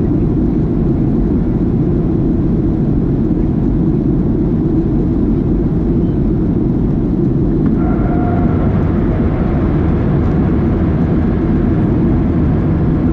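Steady cabin noise inside a Boeing 737-700 airliner on descent: the engines' and airflow's low rumble. About eight seconds in, a faint higher tone joins it.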